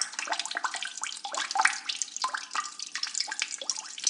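Water trickling and dripping: a steady run of small drops and plops, many a second.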